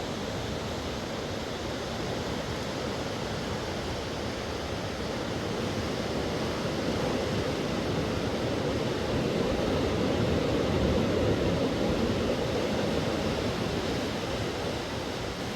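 Steady rushing of a fast-flowing river, swelling a little toward the middle and easing near the end.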